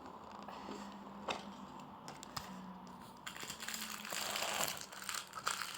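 Packaging wrapper being crinkled and torn open by hand to get at a surprise toy: a few faint rustles and clicks, then louder crinkling from about three seconds in.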